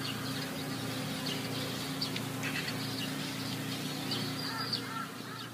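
Birds calling and chirping: many short, repeated arching calls over a steady low hum.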